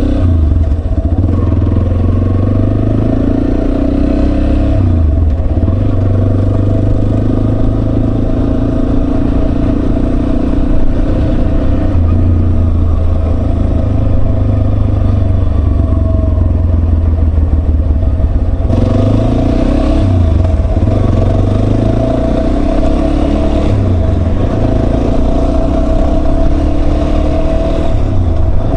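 Yamaha Serow 250's single-cylinder four-stroke engine running under way, its pitch climbing steadily then dropping back several times as the bike accelerates and shifts gears.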